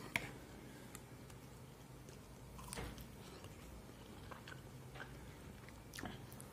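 Faint chewing and biting of crispy roast chicken, with scattered small crunchy clicks and one sharper click just after the start.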